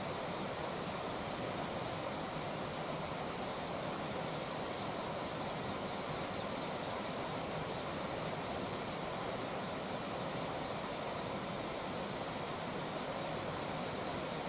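Creek water flowing with a steady, even rushing sound.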